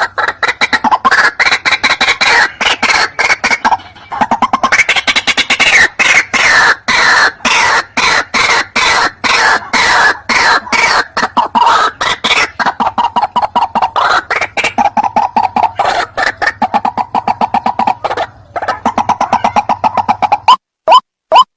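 White-breasted waterhen calling: a long, fast run of harsh, repeated croaking notes, with short breaks about four seconds in and near the end. Just before the end it changes to single short rising notes, about three a second.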